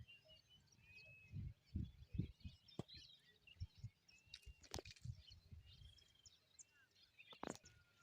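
Faint wild birds calling, with many short chirps and whistles. A few sharp clicks and some soft low thumps are heard among them.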